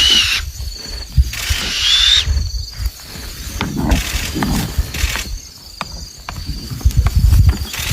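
An animal's short high call that rises and then levels off, heard at the start and again about two seconds in, over a low rumble, scattered clicks and a faint steady high buzz.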